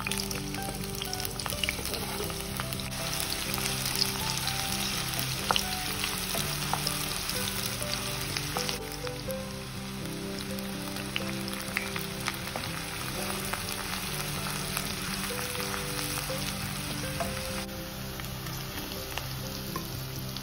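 Sliced onions and curry leaves sizzling and crackling in hot oil in a nonstick frying pan, with scattered clicks and scrapes from a spatula stirring them.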